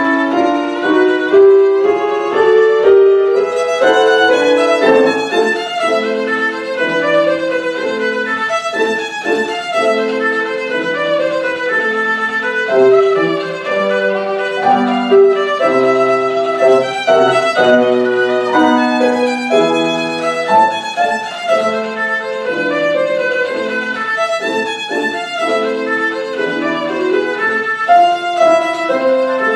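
Violin playing a fast piece of quick running notes.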